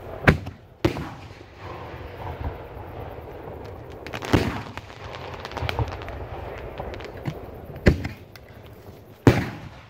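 1.3G aerial firework shells going off: five sharp loud booms, two close together near the start, one about four seconds in, one near eight seconds and the loudest near the end, with smaller pops and crackling between.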